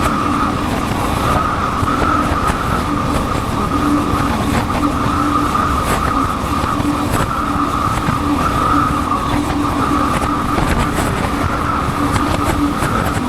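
Motorcycle engine running at steady revs while cruising, with wind rushing over a helmet-mounted microphone.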